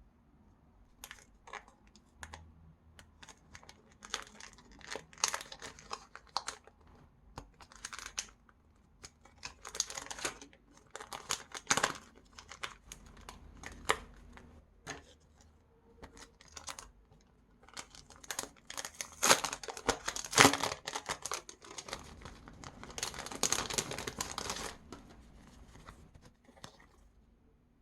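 Stickers being peeled from their backing sheets and handled, with crinkling of plastic sticker packaging, in short irregular bursts and a longer stretch near the end.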